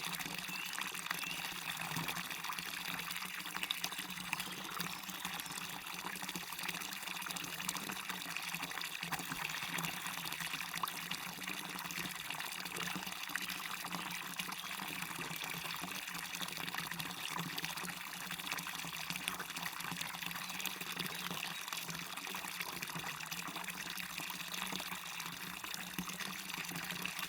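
Small waterfall splashing and running steadily into a stream, a continuous rush with lots of little splashes and trickles.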